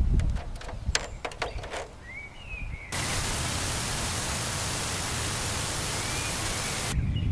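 A few sharp clicks and a short chirp, then a steady, even hiss that cuts in sharply about three seconds in and cuts off just as suddenly some four seconds later.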